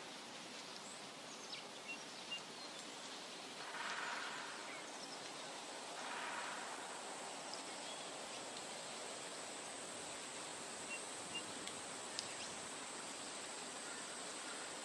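Forest nature ambience: a steady rustling noise bed under a thin, high, unbroken tone, with a few faint chirps and clicks. Two brief soft swells of noise come about four and six seconds in.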